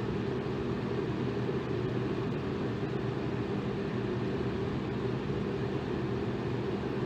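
Electric fan running steadily: an even whooshing noise of moving air with a low motor hum underneath.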